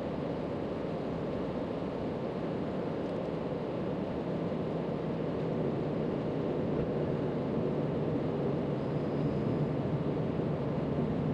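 Steady background rumble with a faint low hum and no distinct events, of the kind made by distant traffic or a machine running outdoors.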